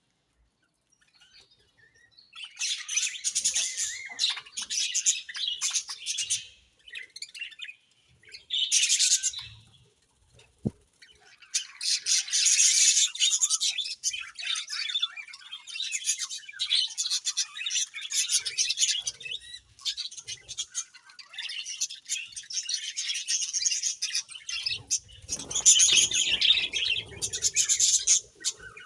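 Budgerigars chattering and chirping, a busy mix of warbles and squawks from several birds, with brief pauses between bouts.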